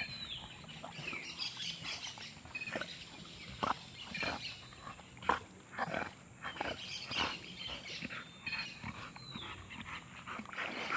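A dog making short, irregular sounds, with a few brief high bird chirps.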